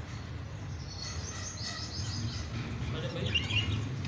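Parrots chirping: a run of quick high chirps about a second in and another burst near the end, over a low steady rumble.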